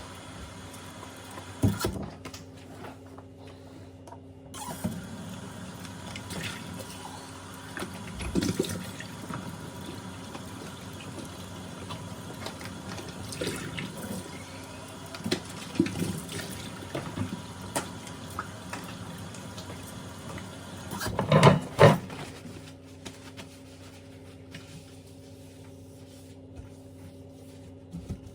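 Water running with intermittent knocks and clatter of household items, the loudest pair of knocks about three quarters of the way through; the running water stops soon after.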